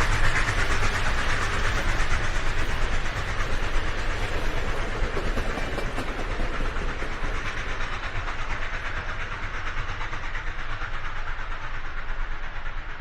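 Train passing close by, its wheels clattering rapidly on the rails, the noise slowly getting quieter.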